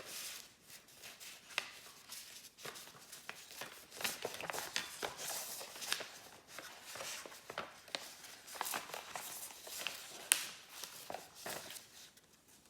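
A sheet of paper rustling and crackling as it is handled and creased by hand, reversing a fold on a paper airplane, with irregular sharp crinkles throughout.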